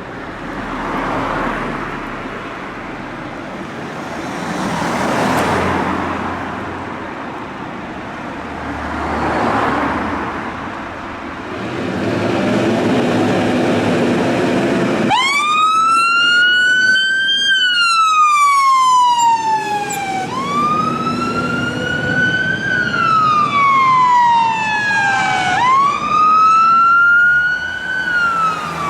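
Road traffic going past in swells for the first half. About halfway through, the fire engine's siren starts: a slow wail that rises and falls about every five seconds, three times over.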